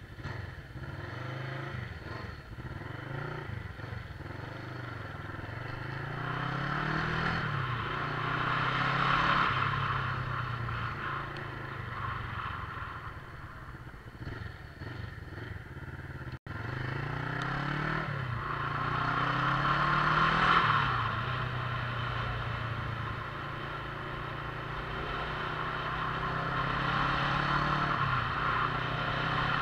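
Motorcycle engine running on the move, its pitch rising and falling again and again as it accelerates and changes gear. Rushing air noise swells with speed. Partway through, the sound cuts out for an instant.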